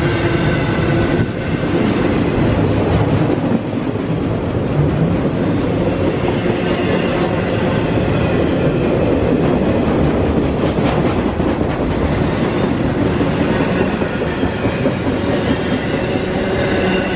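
A train rolling past on the main line: a steady, continuous noise of wheels on the rails, with a few held tones running through it.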